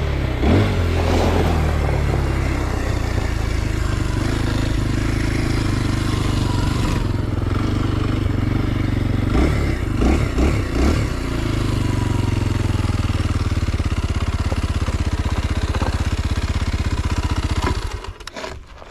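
Kawasaki KLX 230 SM's single-cylinder four-stroke engine running, with the revs rising and falling a few times, then steady, before it cuts off abruptly near the end.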